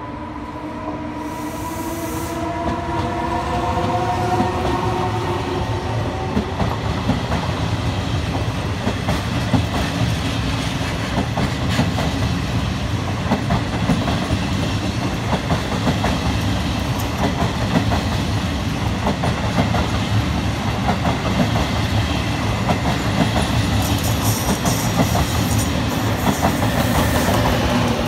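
FS E.464 electric locomotive pulling an InterCity train out of the station. Its motors whine in a stack of tones that rise slightly as it accelerates over the first several seconds. Then the coaches roll past with a steady rumble and wheels clacking over the rail joints, and a lower whine falls in pitch near the end.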